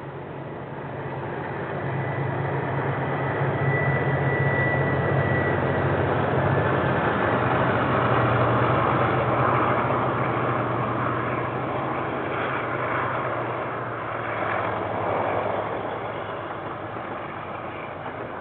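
Diesel-hauled KiwiRail train passing: a low, steady locomotive engine note that grows louder over the first several seconds and then slowly fades as the wagons roll by, with a brief high-pitched squeal about four seconds in.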